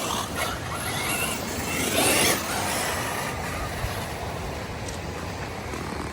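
1:8 scale RC buggy driving, a steady rushing noise with a louder surge about two seconds in.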